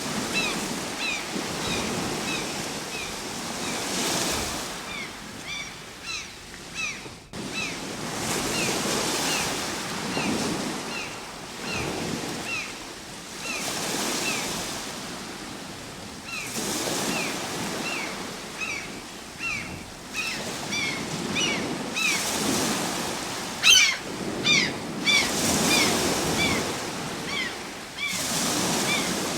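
Ocean waves washing ashore in swells every few seconds, with a bird giving short, falling chirps over them again and again, a quick louder flurry of chirps near the end.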